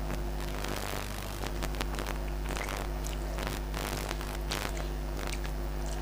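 Close-miked eating by hand: moist clicking chewing and mouth noises as a mouthful of rice and fish curry is chewed, and fingers squishing and mixing rice with curry on a plate. A steady low hum runs underneath.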